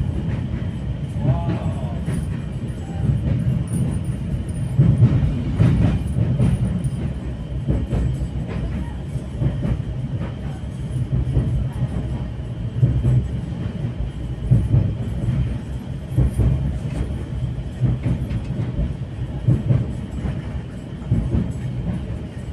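Passenger train coach running on the rails, heard from inside: a steady low rumble with a rapid run of wheel clacks.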